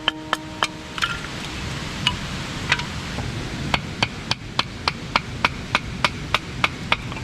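Rapid series of sharp knocks, like hammering or chopping wood. They come irregularly at first, then settle into about three a second, over a steady hiss.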